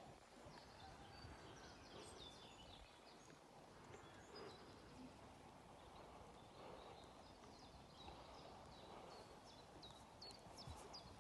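Quiet open-air background with faint birdsong: small birds chirping at intervals, clearest about a second in and again near the end.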